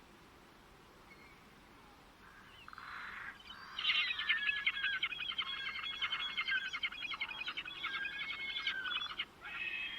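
A songbird singing a long, fast song of quickly repeated notes, starting about three and a half seconds in. After a brief pause a second phrase begins near the end.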